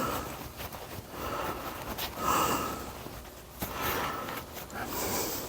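Pressure-washer spray hissing in repeated swells, rising and falling about every second or so as the jet sweeps across the car's engine bay and underside.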